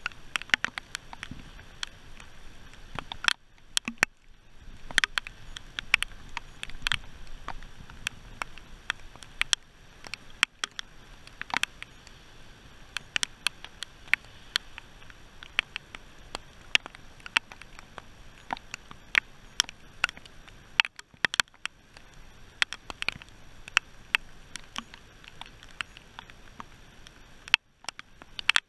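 Rain falling on an aluminum fishing boat: a steady hiss with many sharp, irregular ticks of single drops striking close by, several a second.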